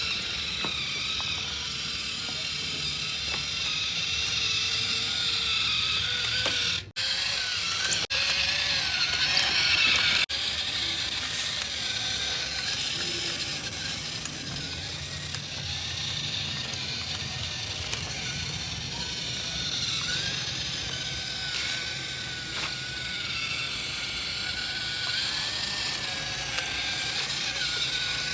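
Small electric motor and plastic gears of a toy vehicle running steadily, a whirring gear noise with a slightly wavering whine. It cuts out briefly about seven seconds in, and there are a couple of clicks soon after.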